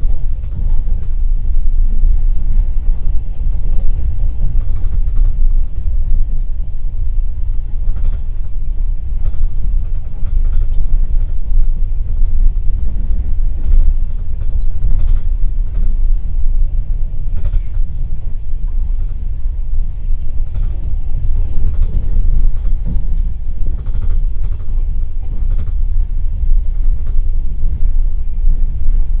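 Passenger train running at speed, heard from inside a platzkart sleeping car: a steady, heavy rumble of wheels on the track with scattered short clicks and creaks from the carriage.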